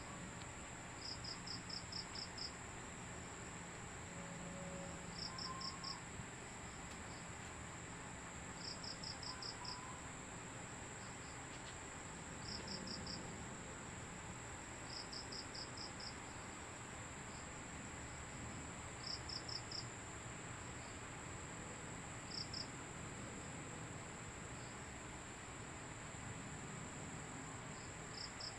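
Cricket chirping faintly in short trains of a few quick pulses every few seconds, over a steady high-pitched insect drone and a low background hiss.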